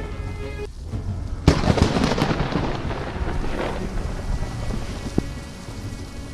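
A close lightning strike: a sudden, loud thunder crack about a second and a half in, crackling and rumbling away over the next two or three seconds, over the steady hiss of rain.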